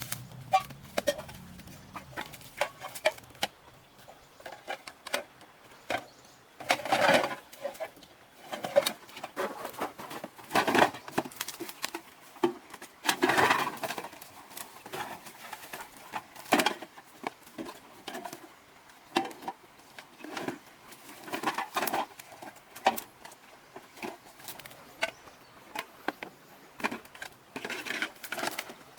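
Irregular knocks, clicks and short rustling scrapes, as of things being handled, with a few louder bursts.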